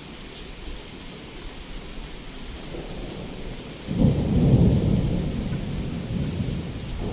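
Heavy rain falling steadily, with a thunderclap breaking suddenly about four seconds in after a short building rumble, then rolling and slowly dying away.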